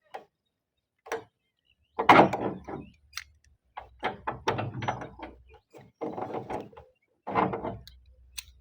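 Irregular knocks and clunks in short clusters, from work replacing roofing tiles; the loudest comes about two seconds in.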